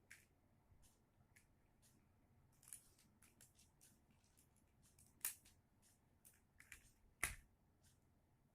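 Near silence with scattered faint clicks and taps, and two sharper clicks about five and seven seconds in.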